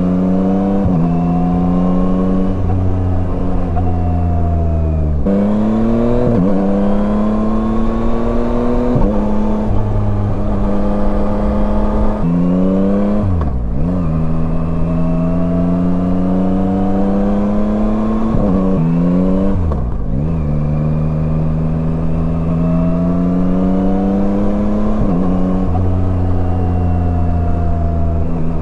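Yamaha Tracer 9's three-cylinder engine pulling under acceleration, its pitch climbing steadily and dropping sharply at each gear change. Twice it falls away and climbs again as the bike slows and picks up speed.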